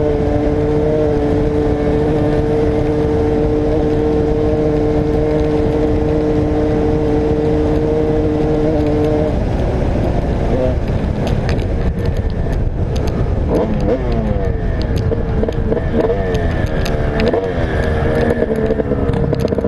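Motocross bike engine held at steady high revs for about nine seconds, then revving up and down repeatedly as the throttle is worked, with scattered clicks and wind buffeting on the microphone.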